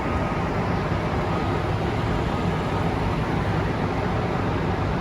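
Steady background rumble with an even hiss, no distinct events: the ambient noise of a busy car show.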